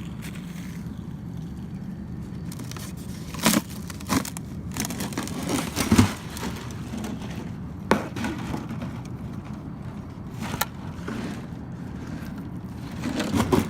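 Footsteps crunching over the ground and forest debris: scattered sharp crunches and cracks, with a louder cluster near the end, over a steady low rumble.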